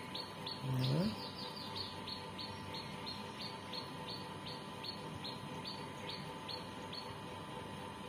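A small bird chirps one short falling note over and over, about three times a second, and stops about seven seconds in. About a second in, a brief low call rising in pitch sounds over it.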